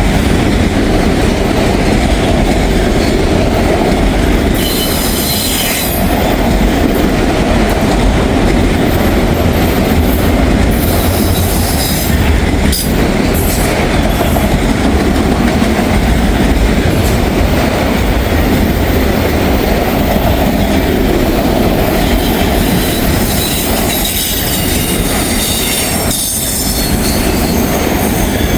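Long freight train rolling past at close range: the freight cars' wheels clatter steadily over the rails, with short high wheel squeals now and then.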